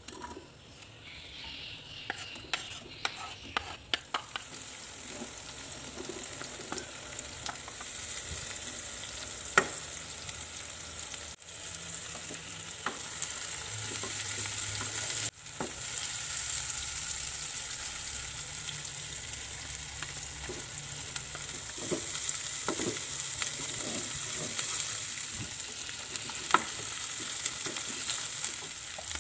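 Sliced onion, shallots and garlic sizzling in hot oil in a nonstick wok, building to a steady sizzle after the first few seconds. A wooden spatula stirs them, with scattered knocks and scrapes against the pan.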